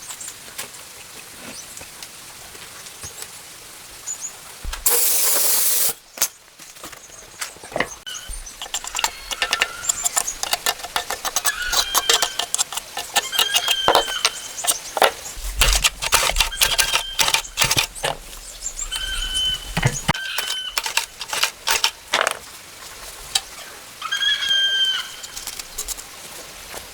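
Many sharp clicks and knocks, like hand work on hard objects, with a hiss lasting about a second some five seconds in and short, level squeaks from about halfway on.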